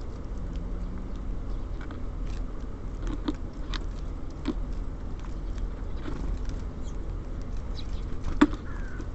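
Small birds pecking and hopping on a bird feeder: scattered sharp taps, the loudest near the end, over a steady low hum of city traffic.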